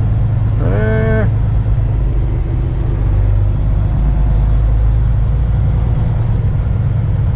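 Kenworth semi truck's diesel engine running at low speed, heard from inside the cab, a steady low hum while the rig crawls through a parking lot. About a second in, a short pitched voice-like sound rises and holds for about half a second.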